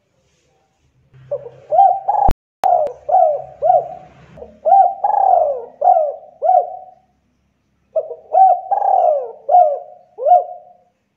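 Spotted dove (tekukur) cooing in two phrases of quick, arching coo notes: the first lasts about six seconds, the second starts after a pause of about a second and runs about three seconds. Two sharp clicks fall early in the first phrase.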